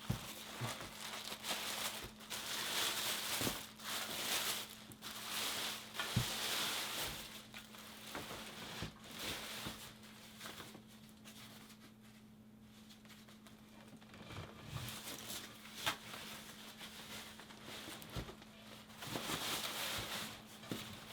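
Packaging rustling and crinkling in irregular stretches, with some tearing and scattered knocks, as a new wheel is unwrapped from its box.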